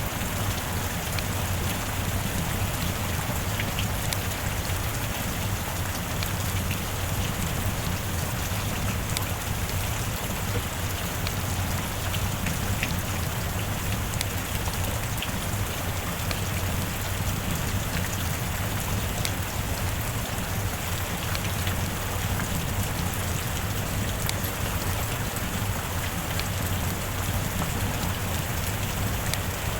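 Steady rain falling, an even hiss of drops with scattered sharper drip ticks.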